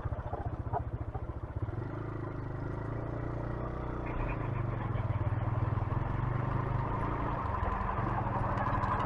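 A 125cc motorcycle engine running while the bike is ridden. It pulses for the first couple of seconds, then settles into a steady hum.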